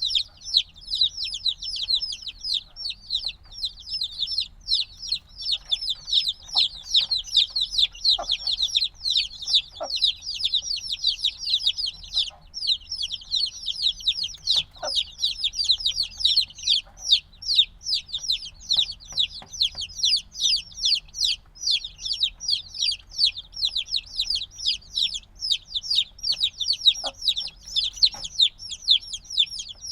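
A brood of newly hatched chicks peeping constantly, many short high downward-sliding chirps overlapping in a dense, continuous chorus. A few faint soft taps sound among them.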